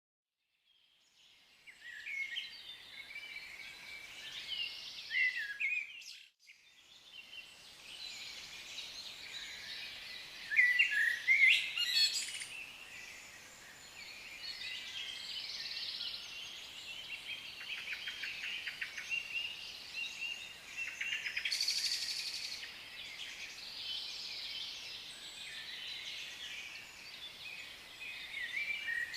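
Several African lovebirds chirping and chattering together in a dense, overlapping stream of high calls, with a short break about six seconds in and a louder burst near the middle.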